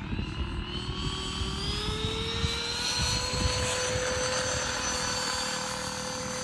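Freewing Stinger 64 RC jet's 64 mm 12-blade electric ducted fan, driven by an inrunner motor on 4S, spooling up: its whine rises in pitch over about three seconds, then holds steady. Wind buffets the microphone with a gusty low rumble underneath.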